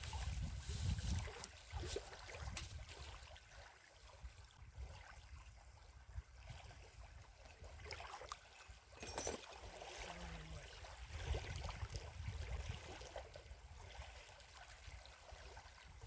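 Wind gusting on the microphone with a low, uneven rumble, over water lapping at the lakeshore and a few faint clicks.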